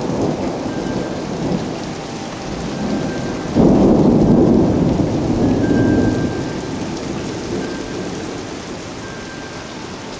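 Thunderstorm: steady rain falling, with a loud rumble of thunder breaking in suddenly about three and a half seconds in, holding for a couple of seconds, then slowly rolling away.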